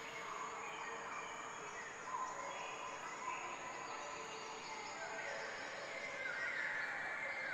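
Ambient rain soundscape fading in: a steady hiss with faint high calls over it that slowly shift in pitch.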